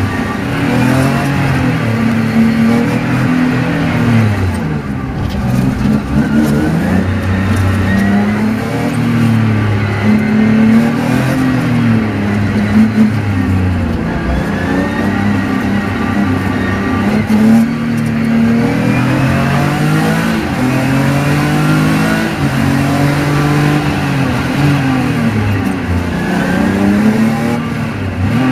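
BMW E30 325i's M50B25 2.5-litre straight-six, heard from inside the cabin, revving up and dropping back again and again as it is driven hard through the gears and corners.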